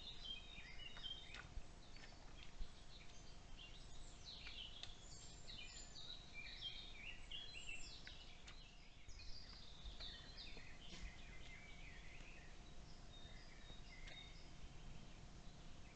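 Faint songbird calls: a run of quick chirps and trills that thin out near the end, over a low steady background rumble.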